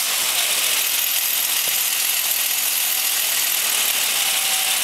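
1962 Ford Fairlane's 200 cubic-inch inline-six running steadily with a freshly rebuilt cylinder head and the valve cover off, a fast mechanical clatter from the exposed rocker arms over the engine note.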